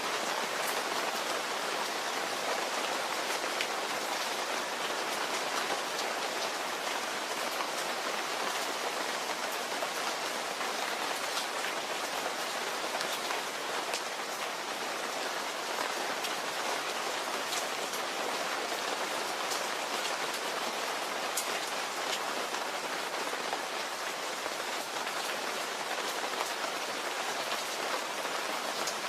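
Steady rain falling: an even hiss with scattered sharper drop ticks, and no thunder.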